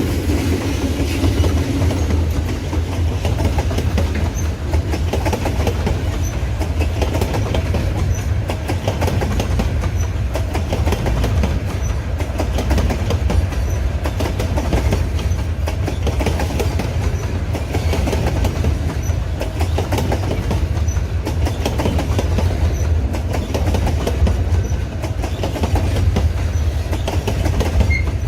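Freight train wagons rolling steadily past: a loud, even rumble with wheels clicking over the rail joints.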